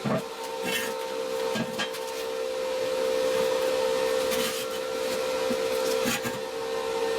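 A small motor running steadily with a constant hum, with short scraping and clicking sounds now and then.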